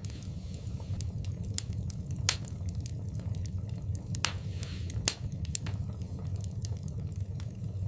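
Wood fire burning in a fireplace: irregular sharp pops and snaps over a steady low rumble of the flames, with louder pops about two seconds in and again about five seconds in.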